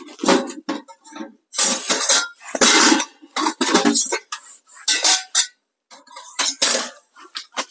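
Thin metal stovepipe sections clanking and rattling against each other and the steel stove body as they are pulled out of the stove's firebox, in several irregular bouts.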